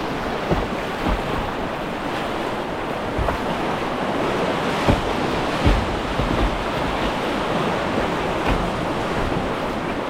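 Rushing whitewater of a river, a steady dense wash of water noise, broken by a few short low thumps of wind or water buffeting the microphone.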